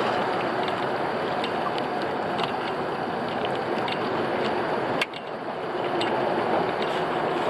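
Small fishing boat's motor running steadily, with water noise and scattered small clicks. The sound drops off abruptly about five seconds in, then builds back up.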